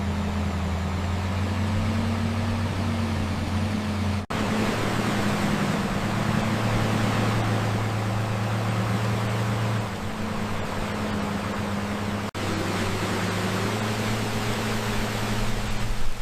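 Heavy dump truck engine running with a steady low drone under a noisy hiss. The drone shifts in pitch about ten seconds in and breaks off for an instant twice, about four and twelve seconds in.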